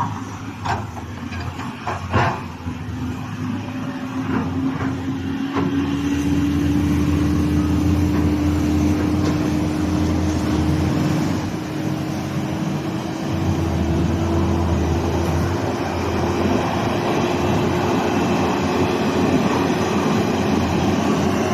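A heavy diesel truck engine pulls hard under load up a hill. It grows louder over the first several seconds, then holds, and its note rises slowly and steadily. A few short knocks sound near the start.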